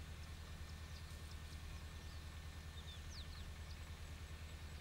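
A steady low hum throughout, with a few faint, brief bird chirps and short falling whistles about one to three and a half seconds in.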